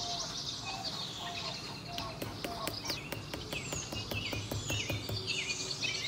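Birds chirping repeatedly over steady outdoor background noise, with a series of small sharp clicks in the middle.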